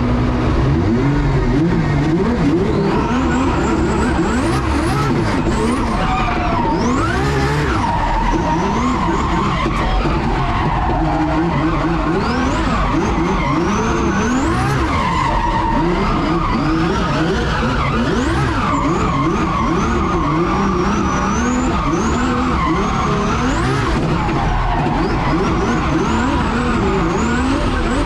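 Car engine revving up and down through hard driving, with the tyres repeatedly squealing in high rising and falling chirps. The tyres are heated to the point of going greasy.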